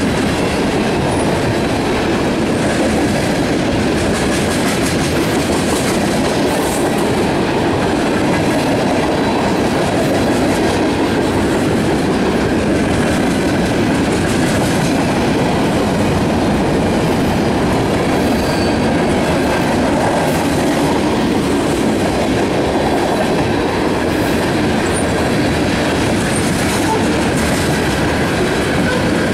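A Canadian National freight train's cars (covered hoppers and a lumber-loaded flatcar) rolling past close by: a loud, steady rolling noise of steel wheels on rail that goes on without a break.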